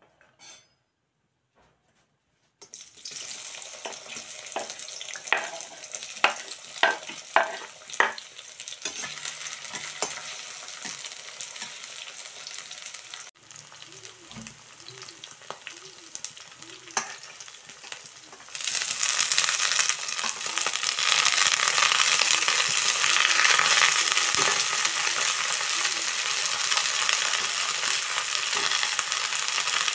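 Sliced onions sizzling in hot oil in a wok, starting a few seconds in, with a metal skimmer clinking against the pan several times as they are stirred. Past the middle the sizzle turns louder as spinach and fenugreek leaves fry.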